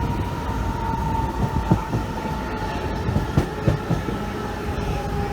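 Passenger train running on its rails: a steady rumble with a few sharp knocks and a thin whine that slowly drops in pitch.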